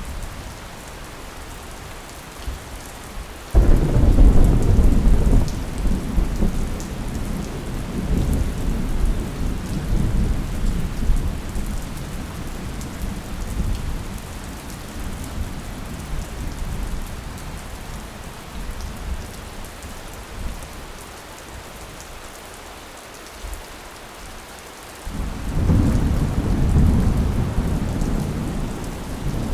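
Thunderstorm: steady heavy rain with two rolls of thunder, the first breaking in suddenly a few seconds in and rumbling away over about fifteen seconds, the second starting near the end.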